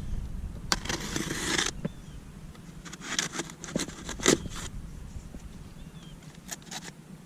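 Knife cutting open a cardboard shipping box, with a scraping rip from about one second in to nearly two seconds in, then clicks and knocks as the box is handled, the sharpest about four seconds in.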